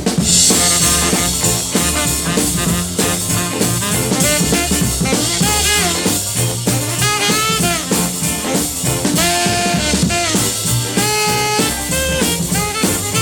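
Instrumental break of a 1950s-style rock and roll recording: a saxophone solo with bending, gliding notes over a driving drum beat, with no singing.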